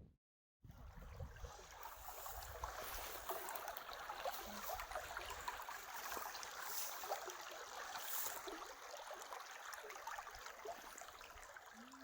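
Running water, like a stream, a faint steady rushing that starts about half a second in after a brief dead-silent gap.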